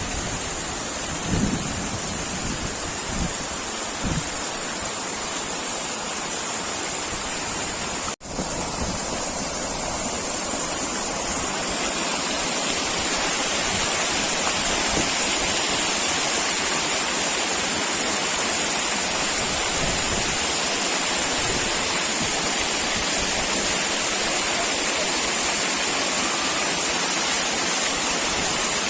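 Steady rushing of water, an even noise that breaks off for an instant about eight seconds in and comes back slightly louder.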